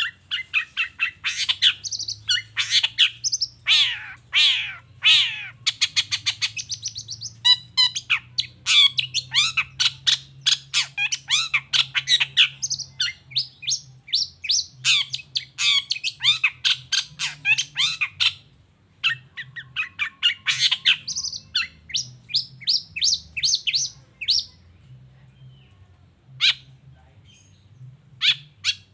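Long-tailed shrike (cendet) singing a fast, dense run of short chirps and harsher squawky notes, thinning to a few scattered notes for the last few seconds.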